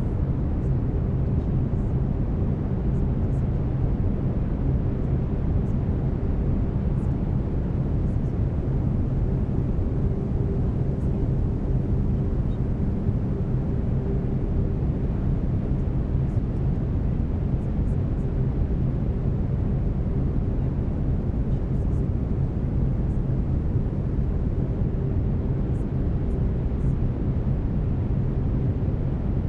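Steady brown noise, a deep even rumbling hiss, with faint low humming tones underneath from the binaural-beat layer. It holds constant throughout.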